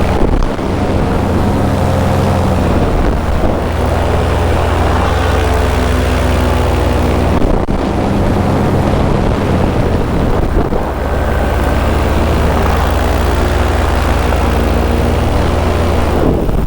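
Paramotor engine and propeller running steadily in flight, the engine note shifting a few times as the throttle changes, with wind rushing over the microphone.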